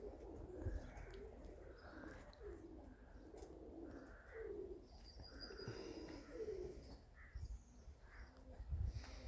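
Pigeons cooing faintly, a run of short, low, rolling coos repeating every half second or so, with a small bird's thin chirp partway through.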